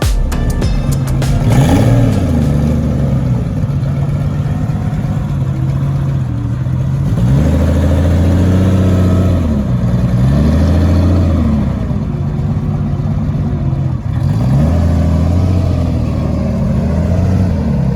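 A supercar engine idling and revved about four times, the pitch climbing and dropping back with each blip of the throttle.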